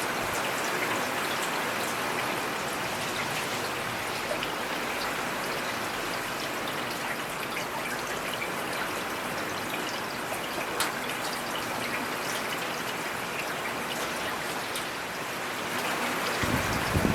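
Steady rain falling, with scattered louder drop hits; about a second before the end a louder, lower thump or splash rises above it.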